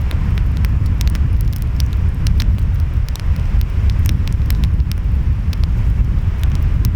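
Wood fire crackling, with frequent sharp pops and snaps, over a deep, steady rumble of ocean waves and wind.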